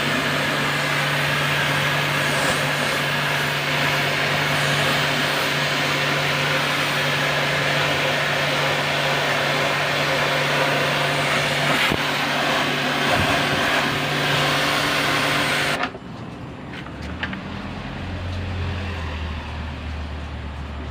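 Electric high-pressure washer running, its water jet spraying onto an air conditioner's outdoor condenser coil: a steady hum under a loud, even hiss of spray. The spray cuts off suddenly about sixteen seconds in, leaving a quieter, lower hum.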